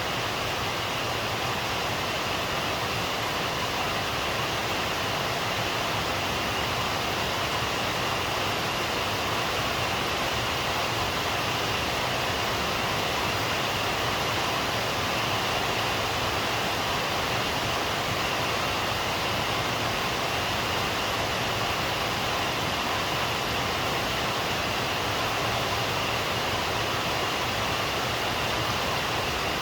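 Steady rain falling, an even hiss with no breaks or sudden sounds.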